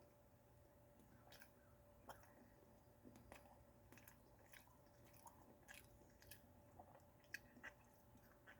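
Faint chewing of a toaster strudel pastry: irregular soft crunchy clicks and mouth sounds, over a faint steady hum.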